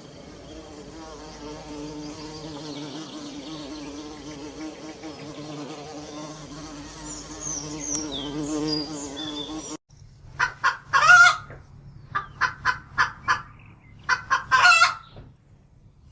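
A flying insect buzzing steadily, with a few faint high bird chirps near the end of the buzz. After an abrupt cut, a chicken clucking in a run of short, sharp calls in quick groups.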